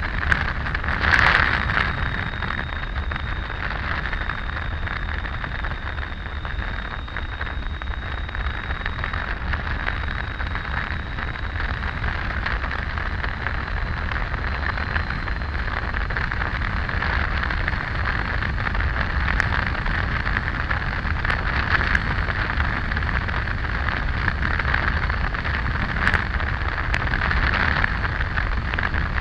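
Steady rush of wind and road noise from riding a Triumph Tiger 800 motorcycle at speed, with a faint steady high whine under it and a louder gust about a second in.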